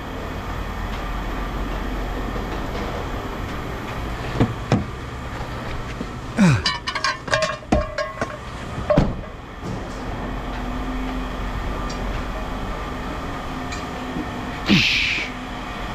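Steady low rumble of machinery with scattered knocks, a quick cluster of clanks about six to nine seconds in, and a short hiss near the end.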